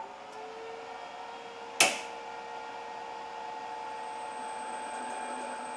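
Electric motor run from a variable frequency drive, spinning up with a short rising whine and then running steadily. A single sharp click about two seconds in.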